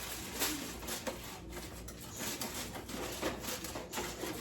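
Aluminum foil crinkling and rustling in irregular bursts as it is pressed down over a pan of ribs.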